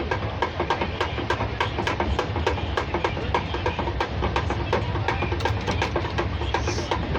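Moving train heard from inside the coach: a steady low rumble with a dense, uneven run of clicks and rattles, several a second.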